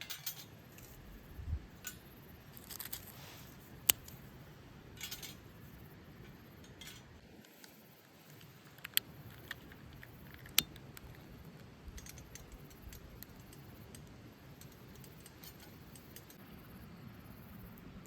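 Small metal items being handled: a few sharp clicks and clinks, the loudest three about 4, 9 and 10.5 seconds in, with soft rustling between them.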